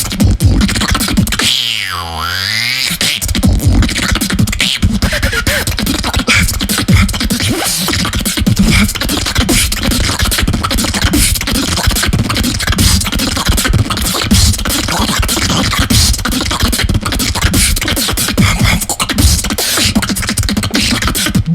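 Vocal beatboxing: a fast, unbroken run of mouth-made drum hits over a steady low buzzing bass. About two seconds in, a swooping sound sweeps down and back up in pitch.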